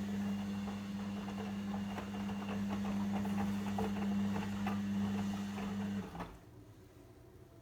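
Logik L712WM23 washing machine running with a steady mains hum and light rattling and clicking; it cuts off suddenly about six seconds in.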